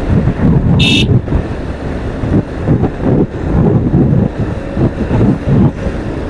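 Wind buffeting the microphone in irregular low gusts while riding a motorcycle, with a short high beep about a second in.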